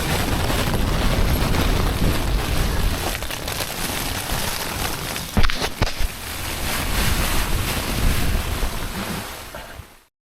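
Strong gusting wind buffeting the microphone, a continuous heavy rush. A few sharp knocks come about halfway through, and the sound fades and cuts off just before the end.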